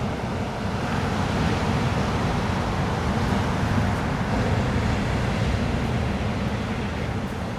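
Ocean surf washing on a beach: a steady rush that swells through the middle and eases near the end, with a low wind rumble on the microphone.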